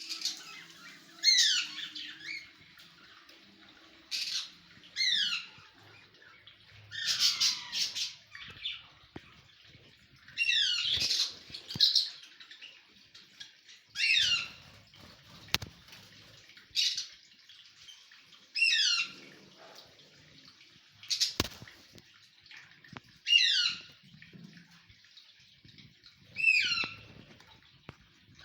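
A bird calling again and again, about a dozen harsh calls that each sweep sharply downward in pitch, spaced every two to three seconds.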